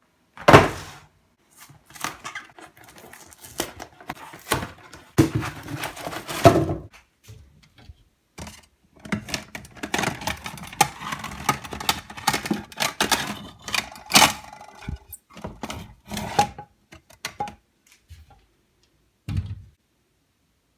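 Frozen pizza packaging being handled and opened: an irregular run of knocks, clicks and crinkly rustling, with the loudest thunks about half a second in and about six seconds in, thinning out near the end.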